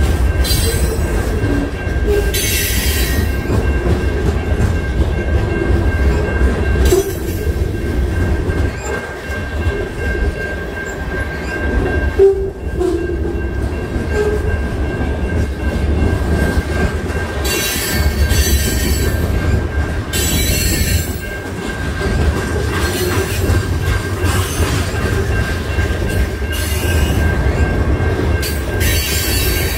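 CN freight train rolling past, its railcars making a steady heavy rumble, with a thin high wheel squeal held throughout and brief hissy surges every few seconds.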